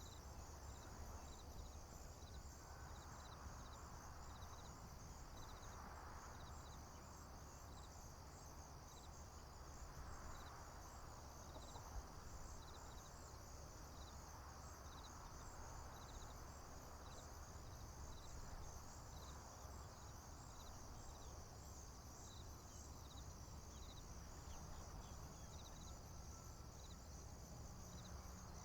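Faint, steady chorus of crickets and other insects in a field: a high, continuous trill with short chirps repeating at an even pace, over a low steady rumble.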